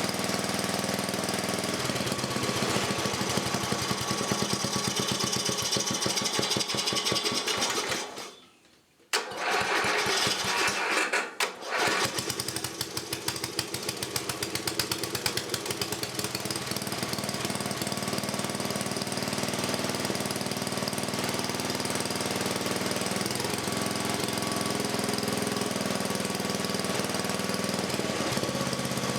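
Rebuilt 1984 10 HP Briggs and Stratton single-cylinder vertical-shaft engine running on its first test run after new rings, gaskets and reseated valves. About eight seconds in the sound cuts out for under a second and comes back, dips briefly again around eleven seconds, then runs steadily.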